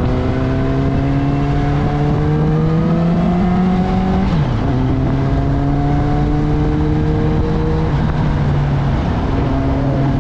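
Street motorcycle engine pulling under way with wind rushing past, its pitch climbing steadily through the gears; it drops sharply with an upshift about four seconds in, climbs again, and drops with another shift near eight seconds.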